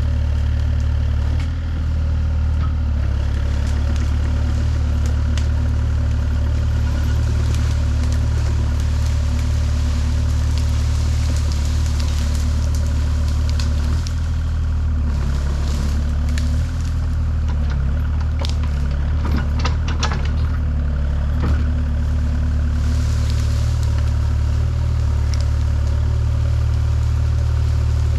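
An engine running steadily at an even, low pitch, with a few short sharp cracks and clatters about halfway through.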